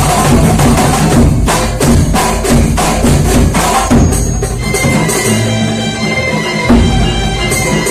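Kuntulan music: a hand-drum ensemble beating a fast, even rhythm. About halfway through the drumming thins out under held steady notes, and the beat picks up again near the end.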